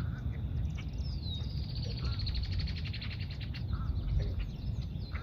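A bird calls, giving a short falling whistle about a second in, then a long, rapid, high trill lasting a couple of seconds. A steady low rumble runs underneath.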